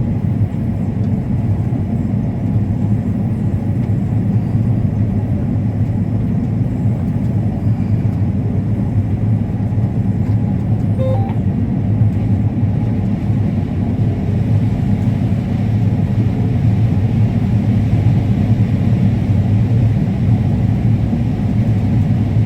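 Combine harvester running steadily while harvesting corn: a constant low drone with no change in pitch or level.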